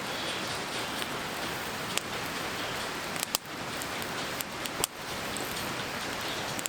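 Steady rush of a mountain river, with a few sharp clicks about two, three and five seconds in.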